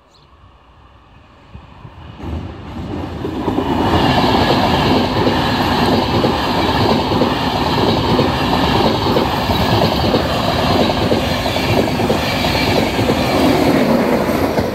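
Virgin Trains East Coast InterCity 225 of Mark 4 coaches with a Class 91 electric locomotive passing at speed. The rush of wheels on rail builds over about four seconds to a loud, steady noise, and the locomotive passes near the end.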